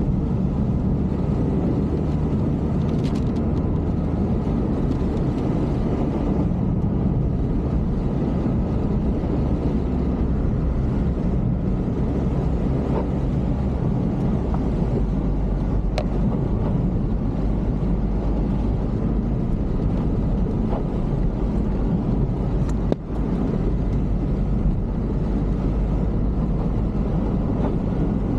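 A vehicle on the move: a steady low engine and road rumble with wind noise, dipping briefly about three-quarters of the way through.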